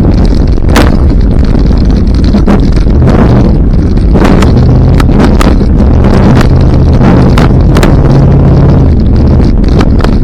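Off-road truck engine running hard, recorded so loud it distorts, with a held pitch through the middle and repeated sharp cracks and bangs over it.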